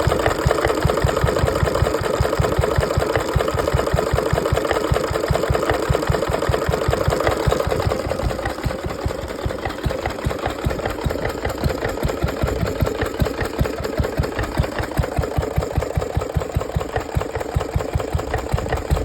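1936 Bamford EV1 single-cylinder stationary engine running with a steady, rapid, even beat. It gets a little quieter about eight seconds in, where each firing stroke stands out more.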